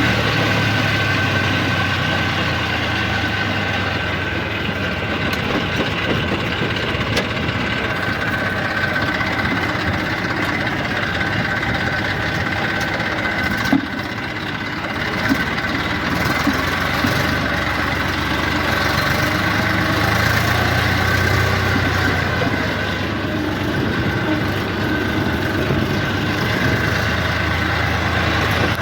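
Eicher 333 tractor's diesel engine running steadily, with a couple of small knocks near the middle.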